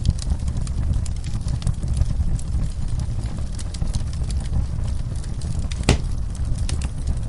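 Wood fire burning in a fireplace: a steady low rumble with constant crackling, and one loud pop about six seconds in.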